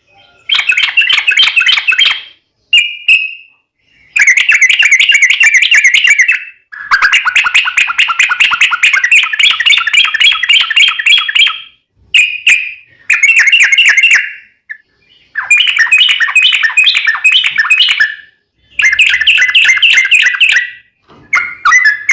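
Yellow-vented bulbul (trucukan) singing its long, rapid 'ropel' song: phrases of quick repeated notes lasting one to five seconds, with short breaks between them.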